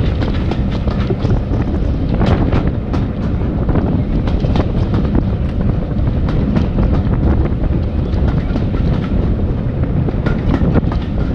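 Heritage railway train running on the line: a steady heavy rumble with the wheels clicking and clattering over rail joints.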